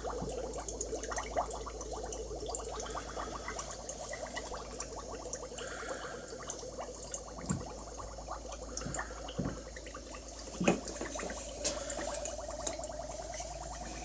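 Electrolysis bath fizzing and bubbling as gas forms on the rusty iron parts, with many tiny crackling pops: electrolytic rust removal under way. A few dull knocks, the loudest about two-thirds of the way through.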